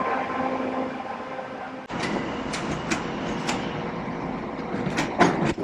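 Train running: a steady hum at first, then after an abrupt change about two seconds in, rumbling with a series of sharp clicks, loudest near the end.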